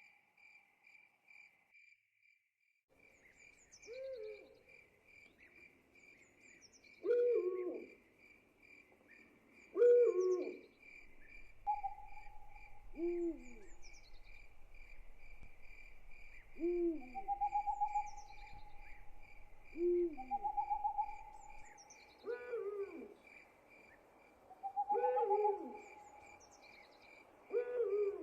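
Owl hooting, a short call repeated every two to three seconds, with longer held whistled notes in between, over a steady pulsing chorus of crickets.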